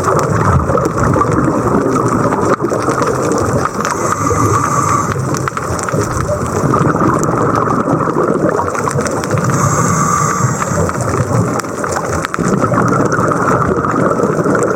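Underwater noise of scuba diving: a steady rushing hiss that swells every five or six seconds, as a diver's regulator exhaust releases bubbles with each breath.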